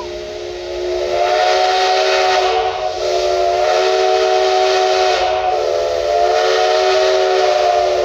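Train locomotive whistle sounding a chord of several steady notes in three long blasts run together, with a hiss beneath.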